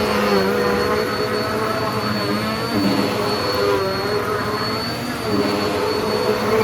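Hoover pet vacuum cleaner running steadily on a rug, a high motor whine over a full, rushing drone, its lower tones wavering in pitch as it is pushed back and forth.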